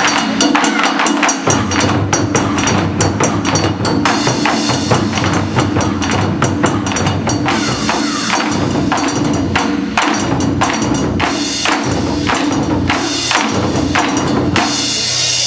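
Japanese taiko drums played by an ensemble in a fast, dense rhythm of sharp strikes.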